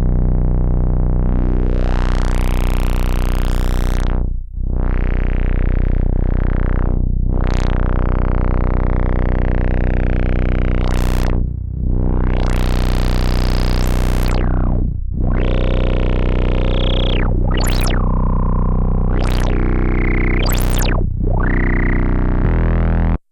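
A Sequential analog polyphonic synthesizer holds a low sustained note or chord while its brightness is swept open and shut again and again, the tone turning bright and buzzy, then dull. It cuts off abruptly near the end.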